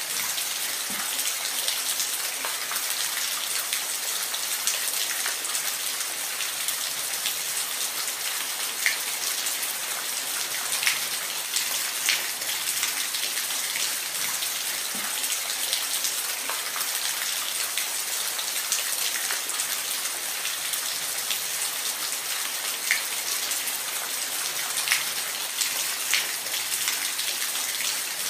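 Steady rain falling, a constant hiss with individual drops ticking sharply now and then on a hard surface.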